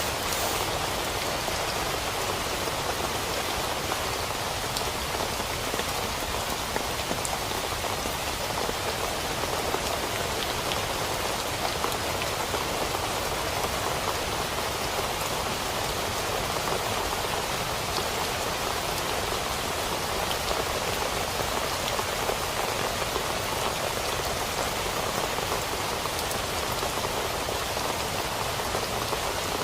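Steady rain falling on a tent, an even hiss with a few single drops ticking louder now and then.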